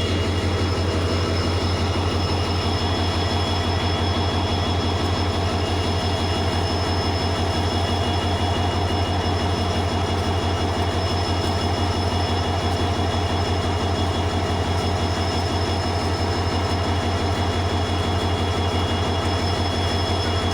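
WDP4 diesel locomotive's EMD 16-cylinder two-stroke engine running steadily, with a fast, even low throb and a steady high-pitched whine over it.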